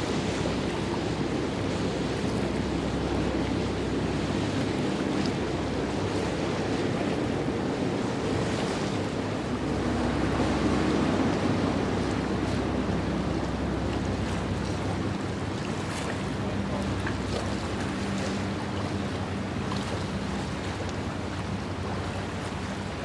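Wind buffeting the microphone over steady water noise, with a faint low hum underneath.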